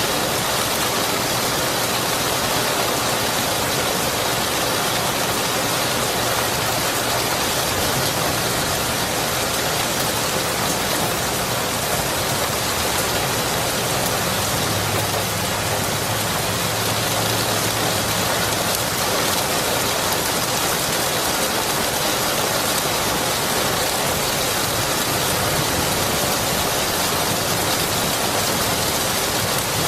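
Steady, heavy rain: a dense, even hiss of falling water that holds without a break. A faint low rumble comes in around the middle.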